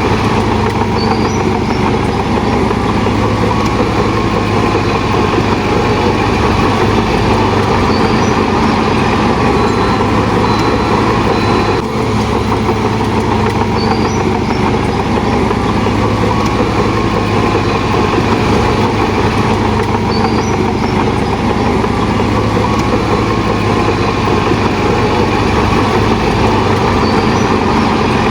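Shantui DH17 bulldozer's diesel engine running loud and steady, with no pauses or clear changes in pace.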